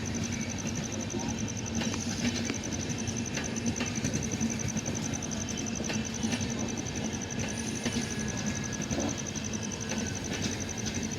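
Passenger train rolling in at slow speed: a steady rumble and hum with scattered clicks and knocks from the wheels on the track. An insect chirps in quick, even pulses throughout.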